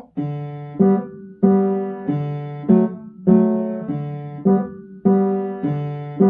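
Piano playing left-hand block chords for G, D and G in a steady pulse. Each chord is struck about every half second and left to ring and fade.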